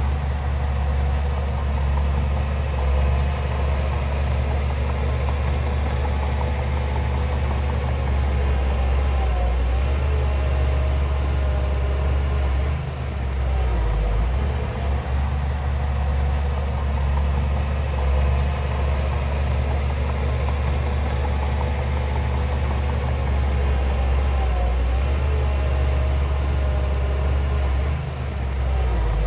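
Heavy diesel engine of earthmoving machinery running steadily, with a deep, even low rumble.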